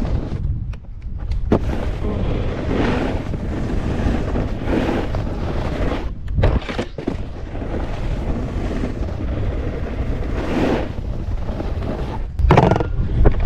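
Heavy wind buffeting the action camera's microphone, a constant low rumble. Hissing swells every few seconds sound like a snowboard's edges scraping over snow, with a few sharp knocks and a louder burst of buffeting near the end.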